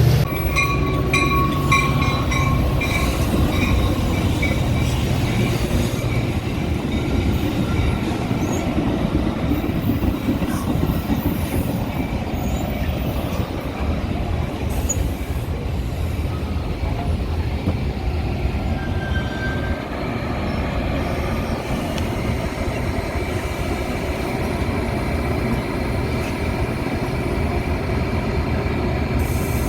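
Metra commuter train running on the track: a steady rumble of wheels on rail, with high, thin wheel-squeal tones and a few clicks during the first few seconds.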